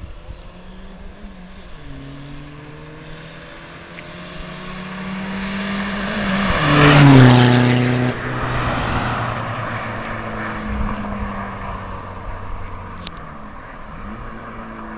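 Turbodiesel car engines accelerating hard through the gears in a drag race: the engine note climbs, drops at a gear change, and climbs again. The cars pass close by about seven seconds in, where the sound is loudest and the pitch falls sharply, then pull away into the distance.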